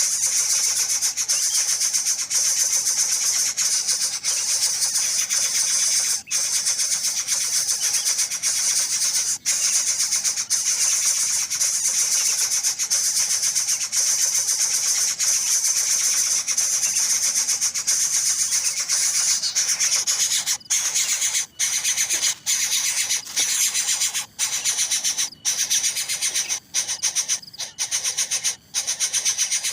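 A chick of the lathe bird calling nonstop in a high, hissing pitch. About two-thirds of the way through the calling breaks into short bursts with brief gaps.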